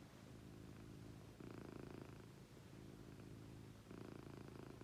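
British shorthair cat purring, a soft fast rumble that swells louder in turns, about a second and a half in and again near the end.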